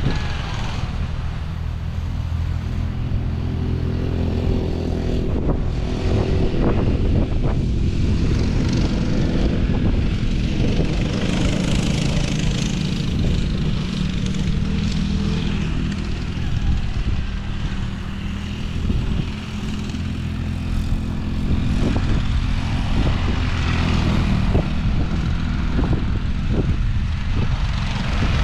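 Small off-road vehicle engine running steadily while riding, its pitch rising and falling a little, with wind noise on the microphone.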